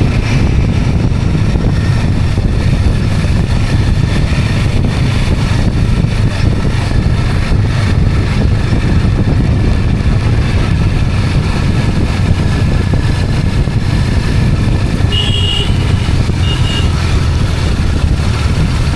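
A two-wheeler's engine running steadily on the move, with road and wind noise. Two short high horn beeps sound about three-quarters of the way through.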